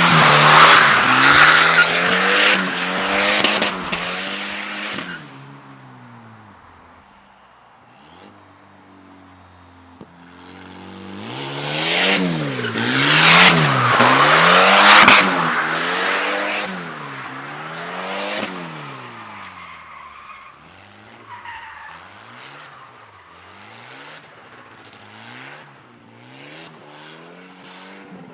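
Volvo 740 turbo drift car drifting: the engine revs up and down rapidly over and over while the tyres squeal. Two loud passes, one at the start and one from about 11 to 18 seconds in, fade down between and after to quieter, still-rising-and-falling revving.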